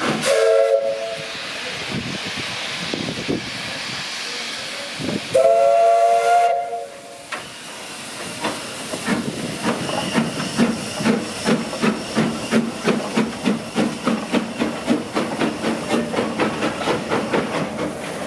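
Steam locomotive giving two whistle blasts, the second one longer, with steam hissing between them. It then starts away, its exhaust beats chuffing steadily and growing louder.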